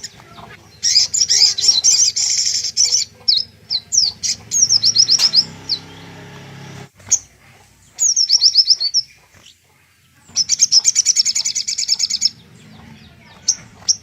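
Little spiderhunter (sogok ontong) singing: bursts of rapid, high-pitched trilled notes, four phrases of one to two seconds with short pauses between them.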